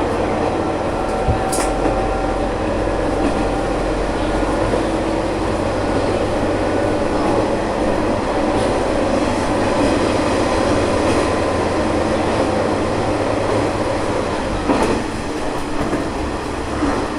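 Diesel local train running along the line: a steady engine drone and wheel-on-rail rumble, with a few sharp clicks from wheels passing over rail joints, one about a second and a half in and a couple more near the end.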